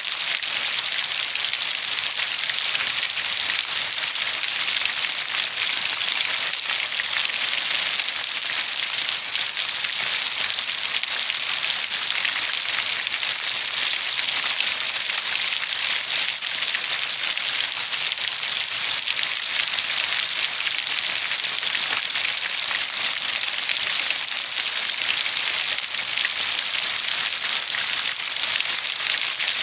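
Steady rainfall pattering on a surface, an even hiss with fine crackle of drops and no change in intensity.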